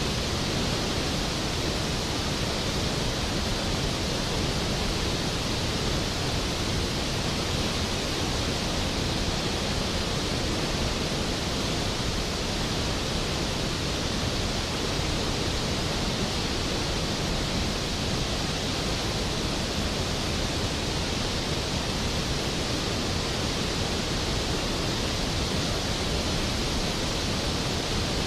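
Skógafoss waterfall: a large volume of water falling and crashing into its plunge pool, a steady, powerful roar of rushing water with no change in level.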